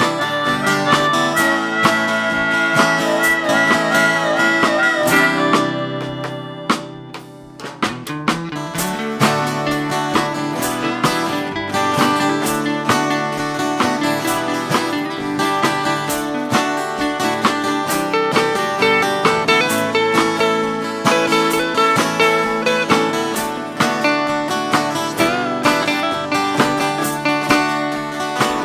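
Instrumental break of an acoustic blues-country band: strummed acoustic guitars with a harmonica playing wavering notes over them for about the first five seconds. The music drops briefly around seven seconds in, then the guitars come back in with a steady strummed rhythm.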